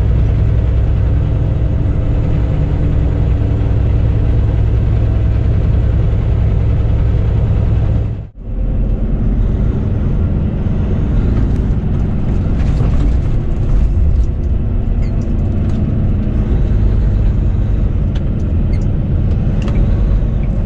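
Semi truck's diesel engine running with road noise, heard from inside the cab as a steady low rumble. The sound drops out briefly about eight seconds in, and faint ticks and rattles come through in the second half.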